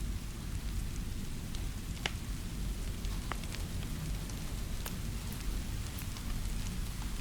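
Steady rainfall with a low rumble underneath, mixed with a fireplace: scattered sharp pops and crackles, the loudest about two seconds in.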